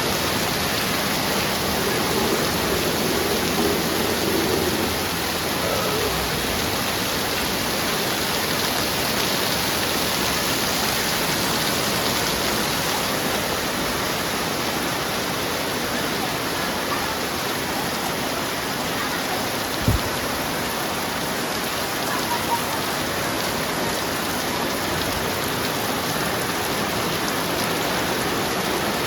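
Heavy rain falling steadily, a dense even hiss of drops. About two-thirds of the way through there is a single short dull thump.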